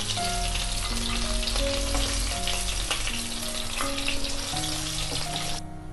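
Fish heads sizzling in hot mustard oil in a wok, a steady frying crackle that cuts off abruptly near the end. A soft background melody plays along.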